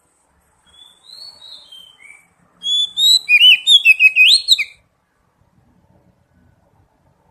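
Oriental magpie-robin (kacer) singing: a few soft, slurred whistles, then from about two and a half seconds in a loud, rapid run of varied whistled notes lasting about two seconds, which stops abruptly.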